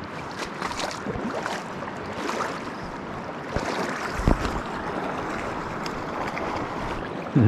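Flowing river water with wind on the microphone, broken by a couple of short splashes or knocks, the loudest near the end.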